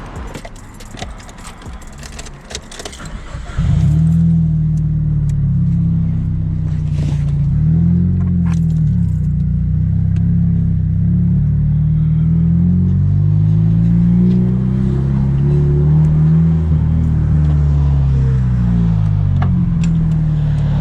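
Keys and small clicks and rattles. About three and a half seconds in, a Nissan Silvia S15's SR20DET engine comes in loud and runs steadily at low revs, its pitch wavering slowly up and down.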